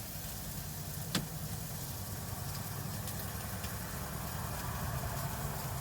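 Vehicle engine idling with a steady low rumble, and one sharp click about a second in.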